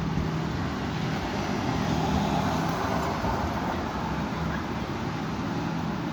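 Steady roar of strong wind mixed with road traffic noise, a low steady hum running underneath, swelling slightly about two seconds in.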